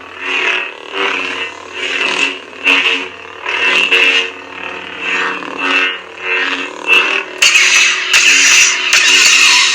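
Lightsaber sound font playing through a prop saber's speaker: a steady electric hum swells into a whoosh with each swing, about every 0.7 seconds. From about three quarters of the way in, loud crackling clash and lock-up sounds take over.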